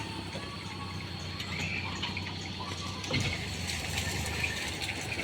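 A vehicle driving on a rain-wet road: a steady low engine hum under the hiss of water, with small scattered ticks and splashes.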